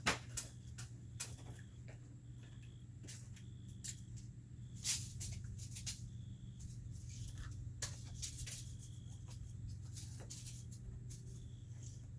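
Scattered light clicks and taps from tools and lumber being handled, the sharpest right at the start and about five seconds in, over a low steady hum.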